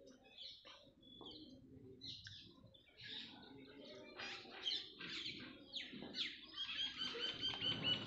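Small birds chirping, with short high calls and sliding notes scattered throughout, and a quick run of repeated chirps near the end.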